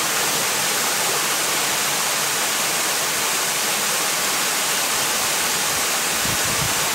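Waterfall: steady rushing, splashing water, with a brief low rumble near the end.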